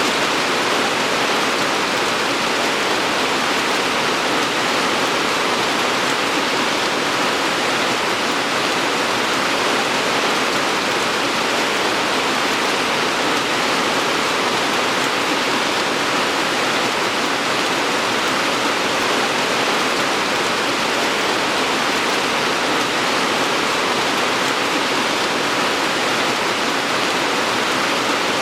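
Steady rain, an even hiss without distinct drops or pauses.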